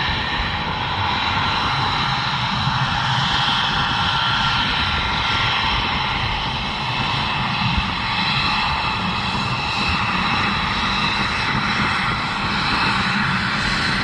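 Twin jet engines of an F-22 Raptor (Pratt & Whitney F119 turbofans) running steadily: a loud, even jet rush with several steady high whining tones over it.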